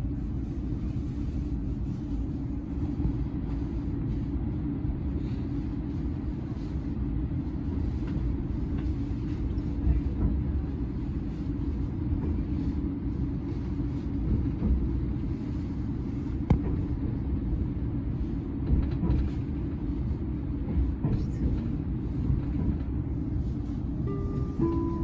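Steady low rumble of a Tobu Revaty limited-express electric train running, heard from inside the passenger cabin, with a few sharp knocks from the wheels and running gear. Near the end a short onboard chime of a few notes begins.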